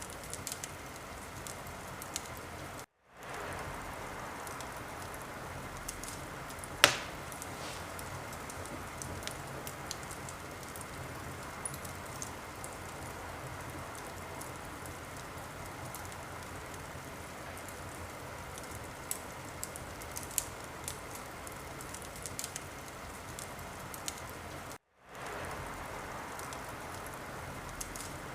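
Wood fire burning in a fireplace: a steady crackling hiss with scattered small pops and one sharp, loud pop about seven seconds in. The sound cuts out briefly twice, near the start and near the end, and fades back in each time.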